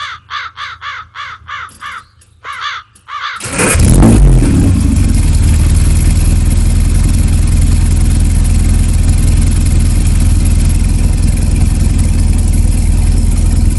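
Mini Traveller's A-series four-cylinder engine being cranked in short, quickly repeating chirps with a brief pause, then catching about three and a half seconds in and running steadily and loudly.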